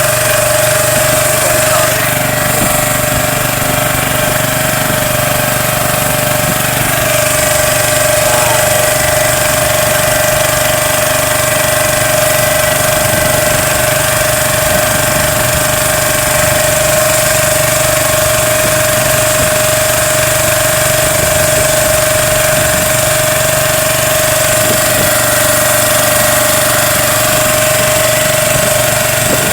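Small boat engine running steadily at a constant speed, a continuous drone with a strong steady whine.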